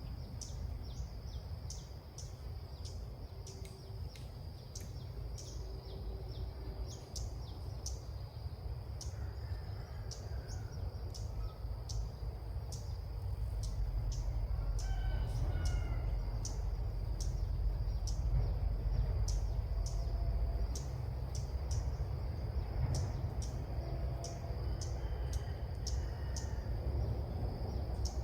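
Small birds calling outdoors: many short, high chirps repeating about twice a second over a steady high-pitched hum, with a few lower call notes about halfway through, over a low rumble of wind or handling noise on the microphone.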